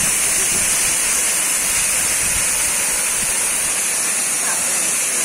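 A waterfall, its water falling and splashing as a steady rushing hiss.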